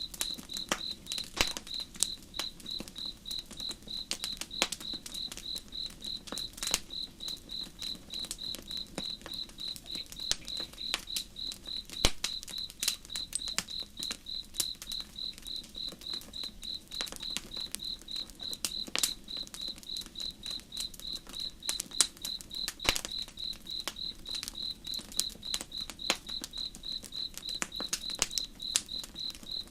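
A cricket chirping in a fast, even train of high pulses, over a crackling campfire with frequent sharp, irregular pops.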